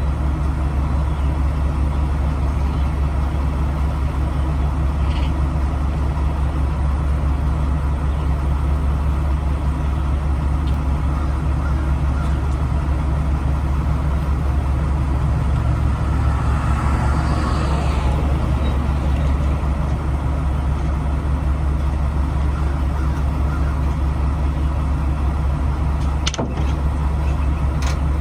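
Heavy truck's diesel engine running at a steady idle, a constant low drone, with a swell of noise about two-thirds of the way through and a few sharp clicks near the end.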